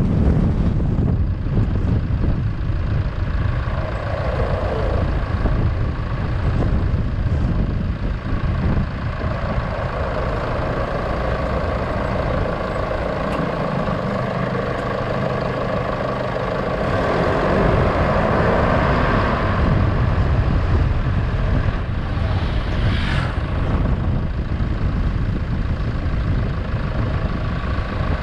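A vehicle's engine running while driving, with road noise; the engine pitch rises and falls partway through.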